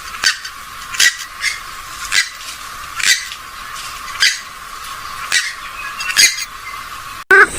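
Short, sharp calls of a rail-family waterbird of the swamphen and moorhen kind, repeated roughly once a second, with the low end of the recording cut away. Near the end the recording cuts abruptly to a louder, wavering call.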